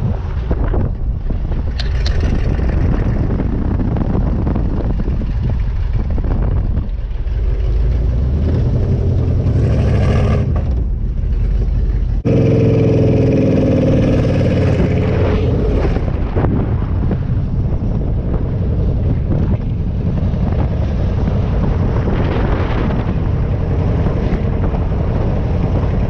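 AC Cobra roadster's engine running on the move, with a steady low rumble. About twelve seconds in, the engine note drops in pitch.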